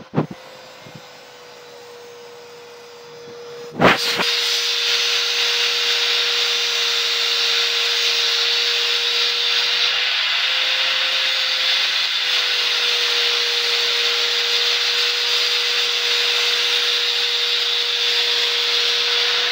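Opel Combo 1.7 Isuzu diesel engine running at a steady idle with a constant whine. A sharp knock comes about four seconds in, after which the engine sounds much louder and hissier.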